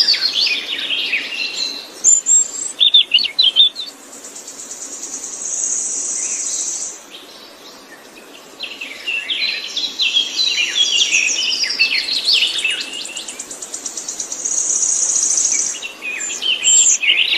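A songbird singing long, varied phrases of quick chirps and whistles, twice breaking into a long, high, buzzing trill.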